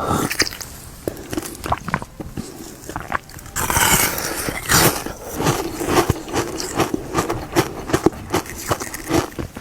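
Close-miked biting and crunching of a frozen ice bar: sharp cracks and crackles of ice breaking in the mouth, sparse at first, then denser and louder from about three and a half seconds in.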